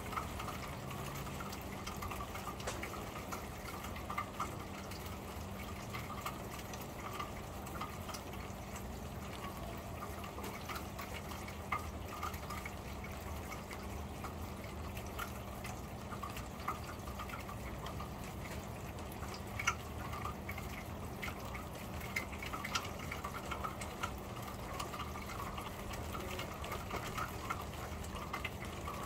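Steady rain on a corrugated metal roof heard from underneath: a constant patter, with single drops ticking sharply on the metal throughout.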